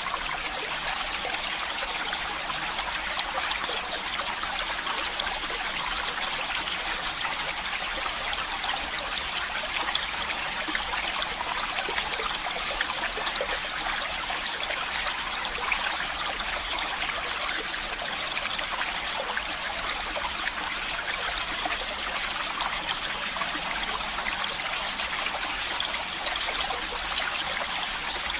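Stream of running water, a steady trickling and splashing flow.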